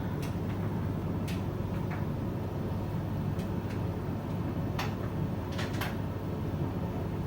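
A steady low rumble, like distant traffic or machinery, with a handful of short sharp clicks scattered through it.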